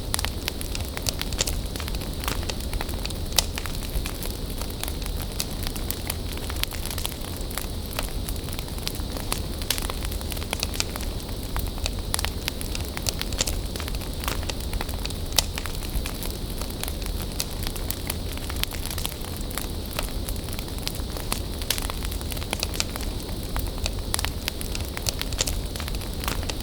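Wood bonfire burning steadily, with frequent sharp crackles and pops over a low rumble of flame.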